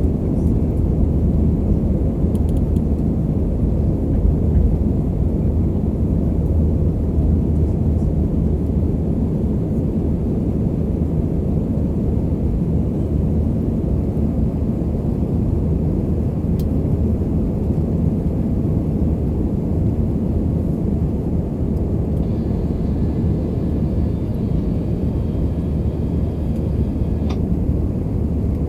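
Airliner's jet engines heard from inside the passenger cabin at takeoff power during the takeoff run and initial climb: a steady, loud, low rumble that eases slightly partway through.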